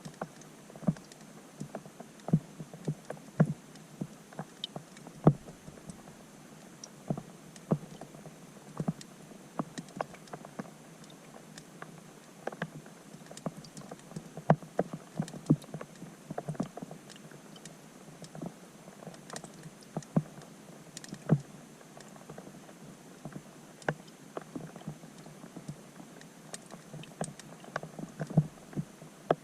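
Rain falling on a pond, recorded underwater with a GoPro Hero 5 Black: irregular sharp ticks and plinks of drops striking the surface over a steady faint hiss.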